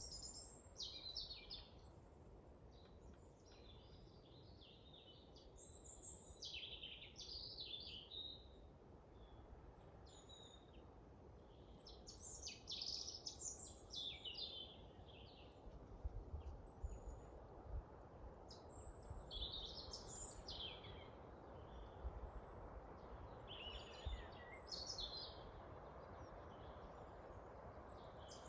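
Forest birds singing: short, high phrases come every few seconds over a faint, steady low rumble of wind, with a few low gusts thumping past in the second half.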